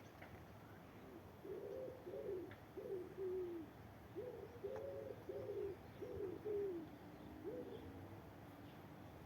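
A pigeon cooing: a run of low, soft hooting notes in two or three repeated phrases, each note swelling and falling away, stopping a couple of seconds before the end.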